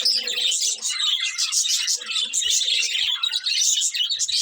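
Budgerigars chirping and chattering, with many short, high calls overlapping continuously.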